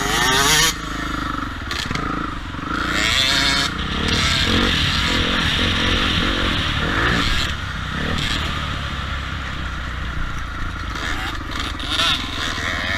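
Motocross dirt bike engine running, its pitch rising and falling near the start and again about three seconds in.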